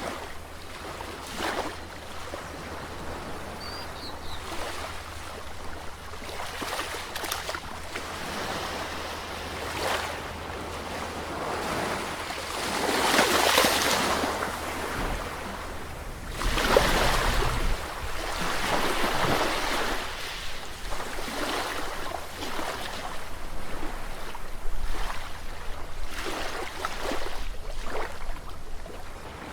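Sea waves breaking and washing in uneven surges, with two larger waves about halfway through.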